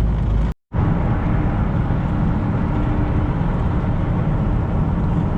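Steady engine and road noise inside the cab of a 2018 Freightliner semi truck under way, with a faint steady hum. The sound drops out to silence for a moment about half a second in.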